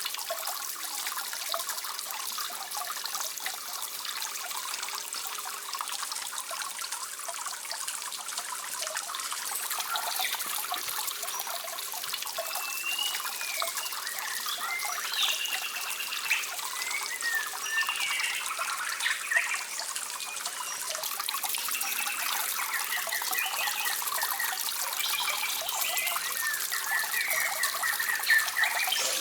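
Steady trickling, running water. From about twelve seconds in, short, wavering high-pitched calls come in over it again and again.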